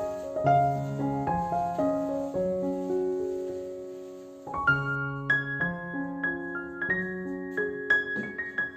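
Background piano music: a slow, gentle melody over held chords, fading softly about four seconds in before a new, brighter phrase begins.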